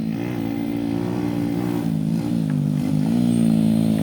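Motorcycle engine running at low revs, its pitch wavering slightly with small throttle changes and growing gradually louder.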